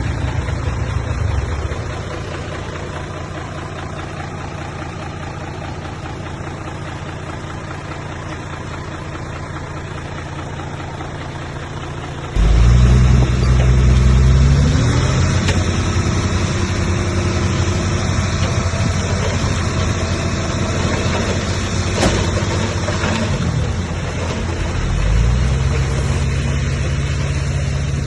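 Heavy diesel engine of a Komatsu bulldozer running steadily. About halfway through it throttles up sharply, its pitch climbing and then holding high and loud, with one sharp knock a little later and another brief rise near the end.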